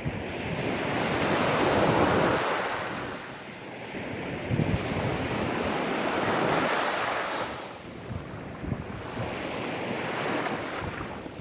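Gentle sea waves washing in on a sandy beach: three swells of surf, each rising and ebbing away over about four seconds, with wind buffeting the microphone.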